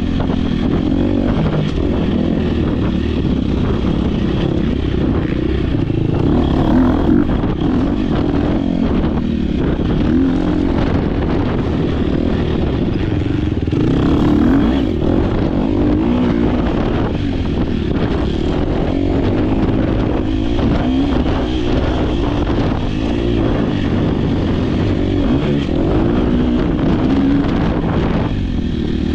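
Dirt bike engine running hard and continuously under throttle, heard up close from a camera mounted on the rider or bike.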